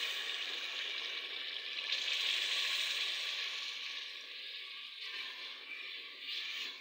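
Potato and onion-tomato masala sizzling hard in a hot aluminium pot as water is poured in, a dense steady hiss that is loudest about two to three seconds in and then eases off.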